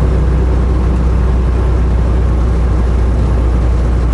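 Semi truck's diesel engine running steadily at road speed, heard from inside the cab as a constant low drone with road noise.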